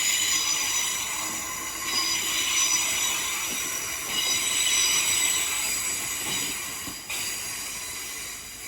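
Train wheels squealing on the rails as a train moves slowly through the station: a high ringing squeal that swells and eases in surges every couple of seconds, fading toward the end.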